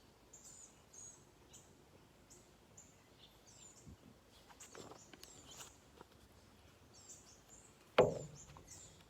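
Faint chirping of small birds, many short high calls, with one sharp thump about eight seconds in.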